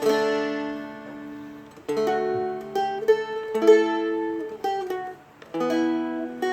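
Seagull Merlin M4, a four-string fretted dulcimer-style instrument, strummed slowly: a chord struck about every second, with the melody walking up and down between them.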